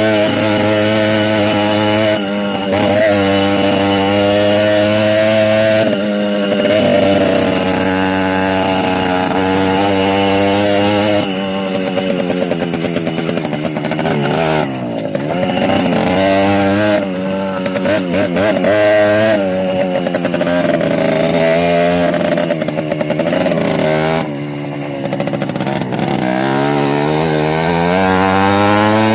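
Small motorbike engines running on the move, the engine note holding steady at first, then rising and falling with the throttle, climbing again near the end.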